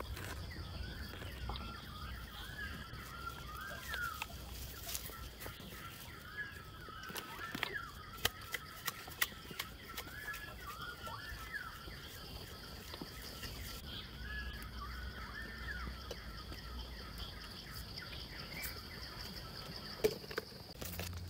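Birds calling in short rising-and-falling phrases, on and off, over a steady high-pitched drone. Scattered sharp clicks and rustles come from handling a clay pot and leaves.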